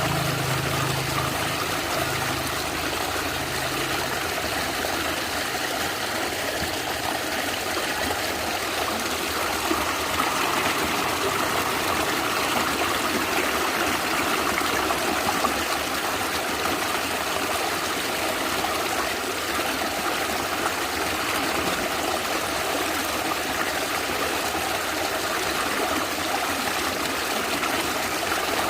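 A natural stream gurgling and trickling steadily over its bed.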